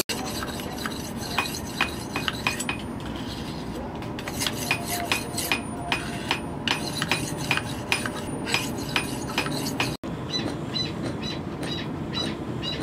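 Irregular light metallic clinks and taps, several a second, each with a short ring, over a steady background rumble: metal being struck or knocked during knife forging.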